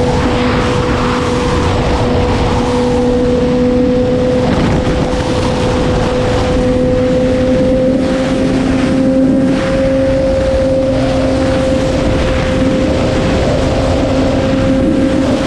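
BMW S1000RR inline-four sport bike engine running at steady high revs through an Arrow aftermarket exhaust, its pitch rising slightly partway through, under heavy wind noise on the microphone.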